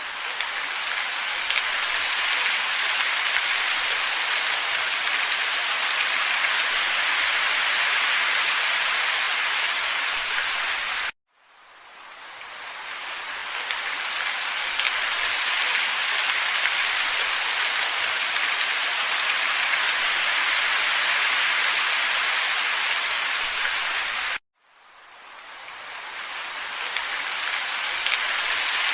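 Steady, even hiss of a looped wind-and-snow ambience track, strongest in the upper-middle range with little rumble. It cuts out suddenly twice, about 11 and 24 seconds in, and each time fades back up over a few seconds.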